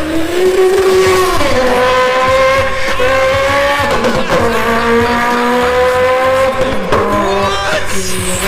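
Beatboxed imitation of a racing car engine, made with lips and voice: a buzzing engine note that revs up and down and jumps to new pitches several times, like gear changes.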